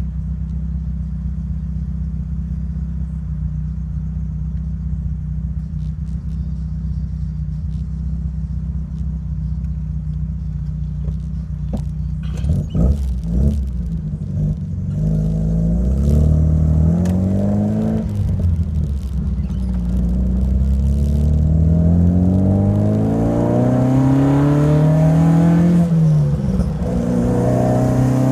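Alfa Romeo Alfasud Sprint QV's 1.5-litre flat-four boxer engine, through a stainless steel exhaust, idles steadily. About twelve seconds in there are a few knocks, then the engine speed rises and falls several times, with one longer climb that drops off near the end.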